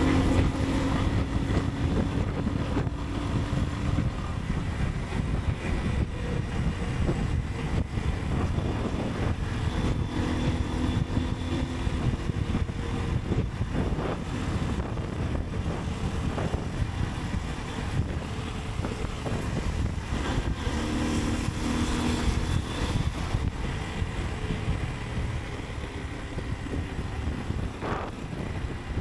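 Motorcycle engine running under way, with wind rush and street traffic, recorded from the rider's point of view; a pitched engine note rises out of the rumble a few times.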